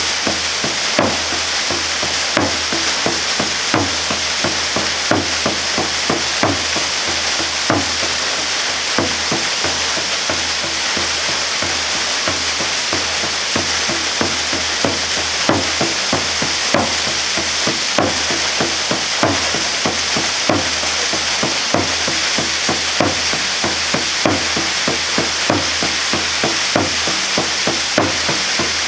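Waterfall pouring steadily, the falling water splashing with many irregular sharp splats over a constant rush.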